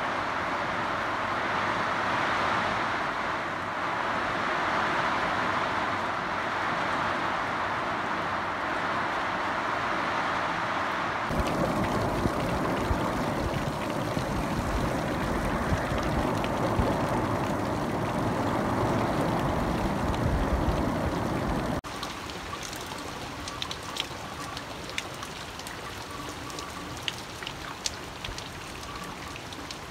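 Rain falling steadily, heard as an even hiss. About 11 seconds in it changes abruptly to a fuller, deeper sound. About 22 seconds in it drops to a quieter patter with distinct individual drips.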